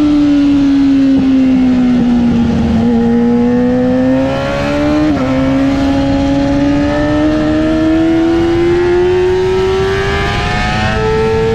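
Yamaha R6 sport bike's inline-four engine at high revs on track. The engine note drops for a few seconds and jumps sharply about five seconds in, then climbs steadily as the bike accelerates hard, with a further step up in pitch near the end.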